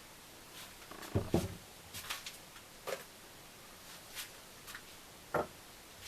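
Scattered knocks and clicks of objects being handled, with a heavier double knock about a second in and a sharp knock near the end.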